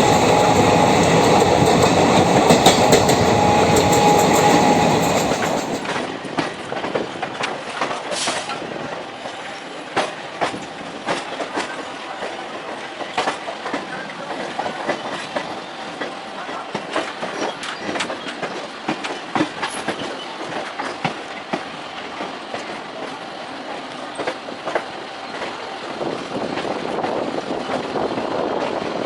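A moving train, its wheels clicking irregularly over rail joints against a steady rumble of running. The first five seconds are louder and denser, with a held tone, before dropping to the steady clicking run.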